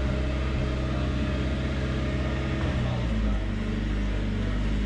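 Box truck engine running steadily as the truck creeps in reverse; about three seconds in its note shifts lower.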